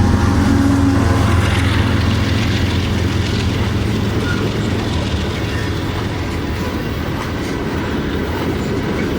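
Freight train passing close by: a deep diesel locomotive rumble strongest in the first second or two, then the steady rolling noise of freight cars on the rails.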